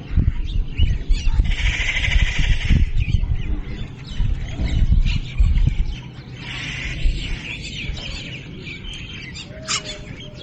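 Small birds chirping, with bursts of dense twittering about two seconds in and again near seven seconds. A low rumble runs under the first six seconds.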